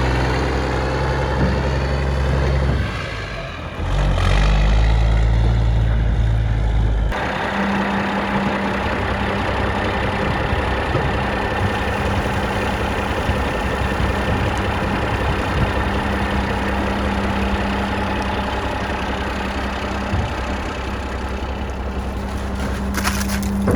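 Caterpillar 3406 inline-six diesel in a heavy truck, idling steadily. About seven seconds in the sound changes abruptly, from a deep low drone to a steadier, higher hum.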